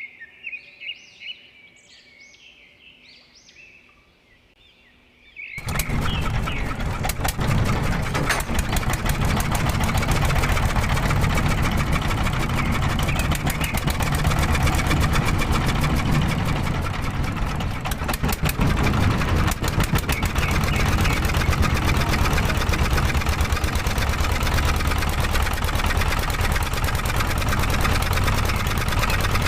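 Mini diesel engine starting abruptly about five seconds in, then running steadily with a rapid, even chatter.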